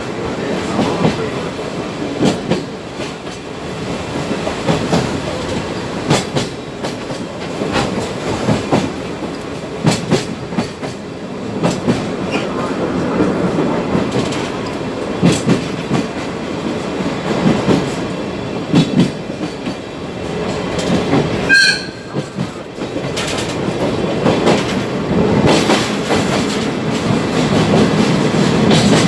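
Sagano trolley train rolling along the track: a continuous rumble with repeated clicks and clatter from the wheels over rail joints. About three-quarters of the way through comes a brief high-pitched squeal.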